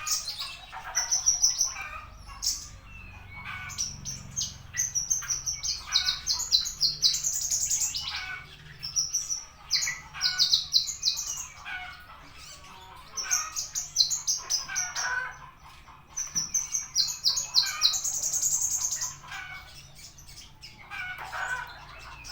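Horsfield's bush lark (branjangan) singing: phrases of rapid, high chirping notes lasting a second or two each, repeated with short pauses between.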